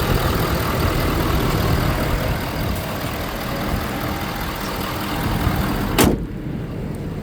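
Ford F550's 6.7-litre Power Stroke V8 turbo-diesel idling steadily, with a single sharp knock about six seconds in.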